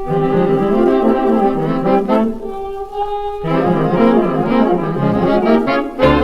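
Band music led by brass instruments, playing sustained notes with changing chords.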